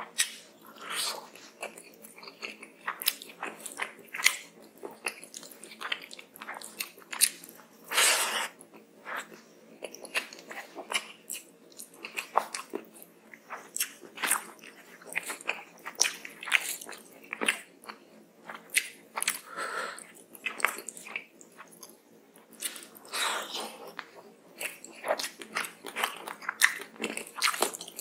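Close-miked mouth sounds of a person eating rice and curry: wet chewing and lip smacks in quick, irregular clicks, with fingers squishing rice into curry between mouthfuls. A few longer, louder wet noises stand out about eight seconds in and again past twenty seconds.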